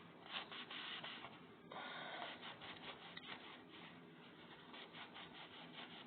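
Faint, irregular rubbing and scraping, a run of short scratchy strokes.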